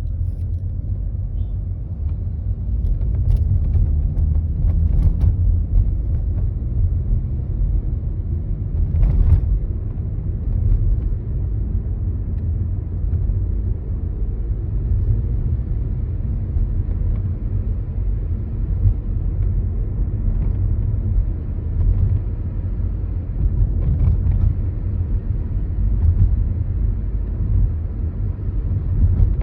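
Škoda Kamiq driving at low speed with a steady low road rumble. A few brief squeaky rubbing noises cut through it, like styrofoam rubbing: the abnormal low-speed noise, worst over uneven road and in sharp turns.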